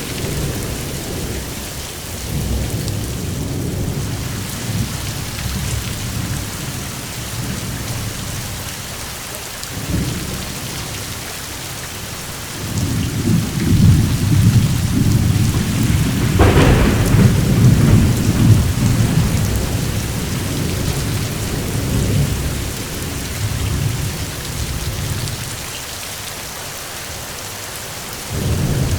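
Steady rain with rolling thunder: low rumbles swell through the middle, with a sharper crack about halfway in, and a shorter rumble near the end.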